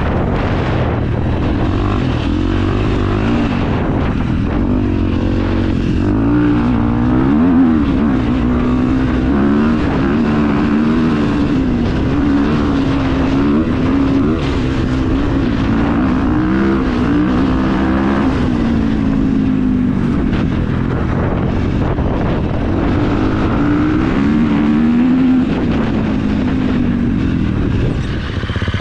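KTM EXC 350's single-cylinder four-stroke engine running loud through an Akrapovič exhaust, its engine speed rising and falling in gentle swells.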